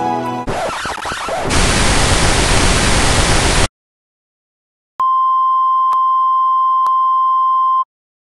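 A burst of white-noise static that gets louder and then cuts off abruptly. After a second of dead silence comes a steady, high-pitched test-tone beep near 1 kHz, lasting about three seconds, with faint clicks in it.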